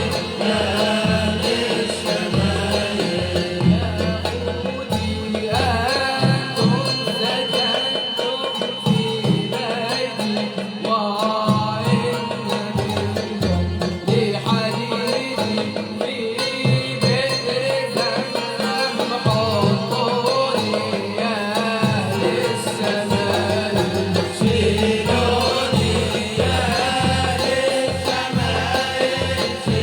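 A malouf ensemble playing live: hand drums beat a steady rhythm under a wavering melody line.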